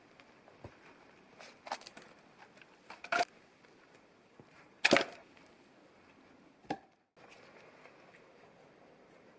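Wood being worked by hand: a few sharp, irregular wooden knocks and cracks, the loudest about five seconds in.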